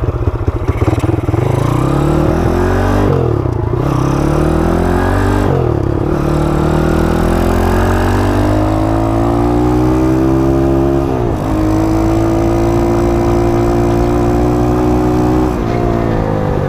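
Honda CT70 minibike's swapped-in 140cc four-speed engine under acceleration, its pitch climbing and dropping sharply at each of three upshifts, then holding a steady cruise. The pitch falls once more near the end.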